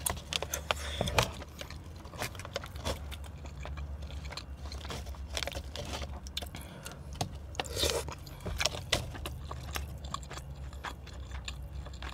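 Close-miked chewing and mouth sounds of someone eating chewy tteokbokki rice cakes, with scattered small clicks and scrapes of chopsticks against the takeout tray, over a low steady hum.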